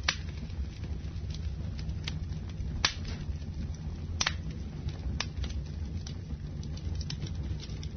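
Wood fire burning in a fireplace: a steady low rumble from the flames with sharp crackles and pops at irregular intervals, the loudest just at the start and about three seconds in.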